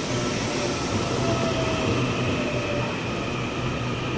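Taiwan Railways local train running alongside the station platform, a steady rumble of wheels and running gear with faint thin whines.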